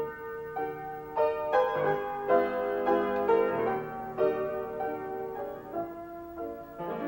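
Background piano music, a gentle melody of separate notes struck one after another.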